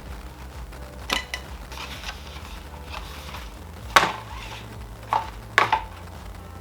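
Items from the box being handled and set down: a handful of short, sharp knocks and clicks, the loudest about four seconds in, over a low steady hum.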